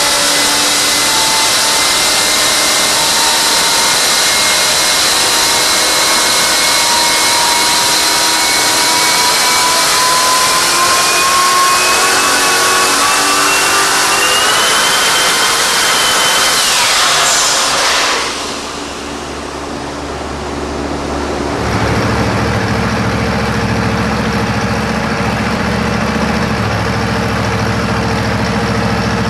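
Twin-turbo trike engine with a loud rushing noise and high turbo whine that climbs slowly in pitch. About 17 s in, the whine sweeps sharply down and fades. After a brief lull the engine settles into a low, steady idle.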